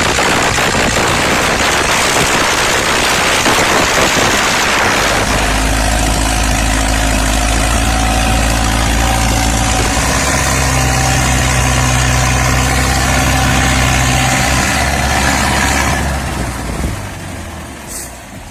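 Vehicle engine running: a loud rough clatter at first, then a steady engine drone that steps up in pitch about ten seconds in, dying away near the end.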